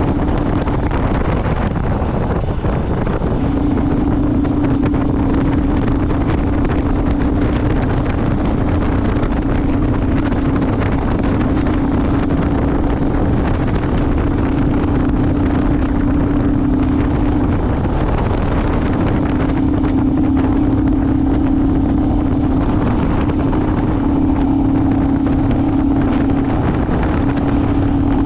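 Vehicle engine running while driving, a steady drone that briefly drops away about two seconds in and again past halfway, with wind noise on the microphone.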